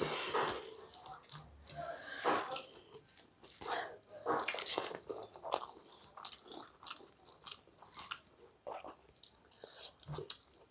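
Chewing and mouth sounds of people eating rice and curry by hand, picked up close by a clip-on microphone: a run of short, irregular clicks.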